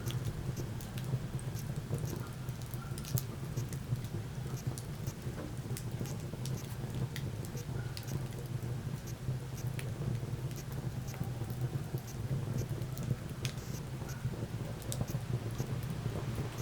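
Wood fire crackling, with many small scattered pops and snaps over a steady low rumble.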